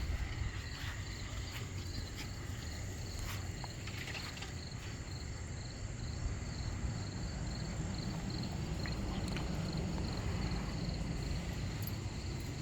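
An insect chirping steadily, a high pulse about three or four times a second, over a low rumble with a few scattered clicks.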